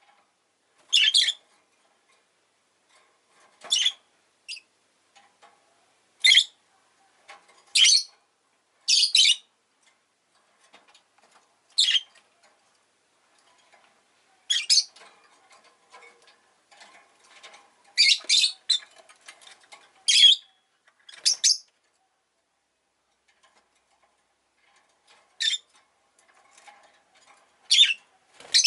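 Rosy-faced lovebird giving short, sharp, high-pitched chirps, one every second or two, sometimes two in quick succession.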